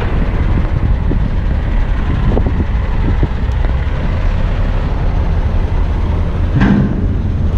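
Heavy eight-wheeler dump truck's diesel engine running, a steady low rumble with a few light knocks and rattles, and one louder clunk near the end.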